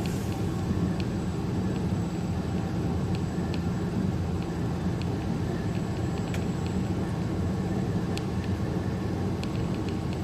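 Steady drone of a truck's engine and road noise heard inside the cab while driving at highway speed, with faint scattered light ticks.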